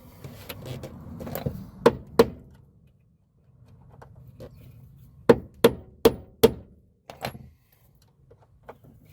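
Sharp knocks of hand tools striking metal while working at a stuck screw on a truck's accelerator pedal. There are two knocks about 2 seconds in, then a quick run of four evenly spaced strikes a few seconds later.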